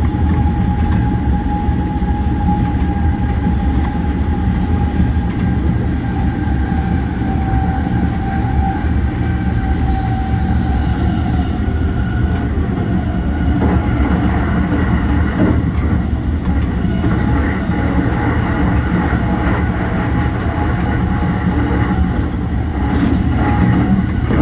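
Yokosuka Line E235-1000 series electric train running along the line: a steady rumble with a hum of motor tones, one of them sinking slightly in the first half, and a few clicks from the wheels in the second half.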